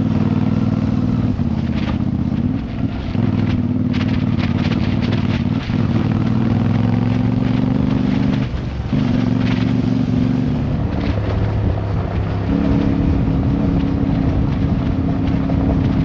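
Motorcycle engine running under way. Its steady note is broken by short dips several times, holding a different pitch after each.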